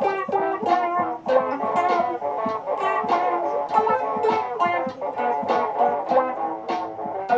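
Looped electric guitar parts playing together: a steady stream of short picked notes over layered repeating guitar lines.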